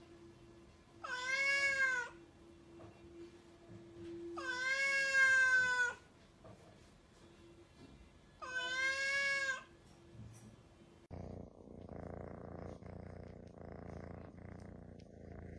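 A cat meows three times, long drawn-out meows with the middle one the longest. About eleven seconds in, this gives way to a cat purring steadily in a slow pulsing rhythm.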